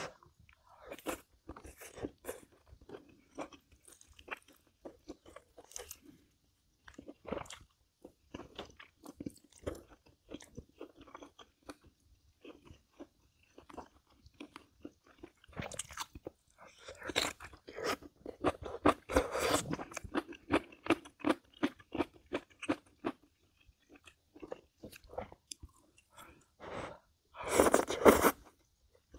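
A person chewing and crunching food with many small clicks, denser in the middle, and a louder burst of crunching near the end.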